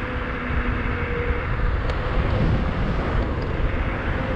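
Wind buffeting the microphone while riding a 72-volt, 5000-watt DIY electric bike kit, with a steady whine from its motor over the deep rumble.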